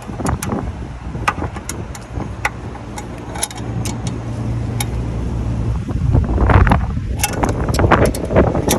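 Sharp metallic clicks and clinks of hand tools and small hardware being worked on a motorcycle during a roadside repair, over a steady low hum of vehicles. The hum swells louder after about six seconds.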